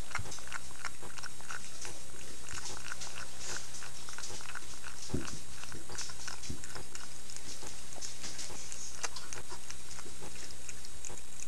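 A cat eating from its bowl: a run of quick, irregular chewing and crunching clicks, with a couple of duller knocks about five and six and a half seconds in.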